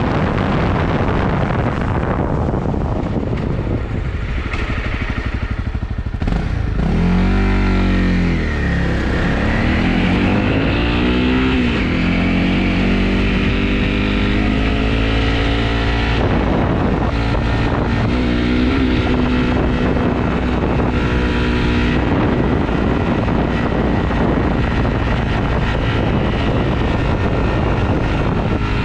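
Honda CRF250 motorcycle's single-cylinder four-stroke engine running on the move, its note rising and falling in pitch several times as the throttle is opened and closed.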